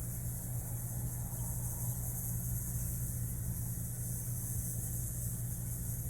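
Steady low mechanical hum, like a motor or engine running, with a constant high hiss over it.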